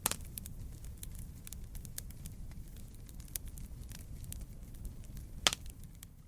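Wood fire crackling: a steady low rumble of burning with frequent sharp snaps and pops, the loudest pop about five and a half seconds in.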